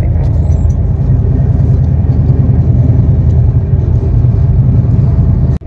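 Steady low rumble of a moving passenger train heard from inside a sleeper coach, dropping out for an instant near the end.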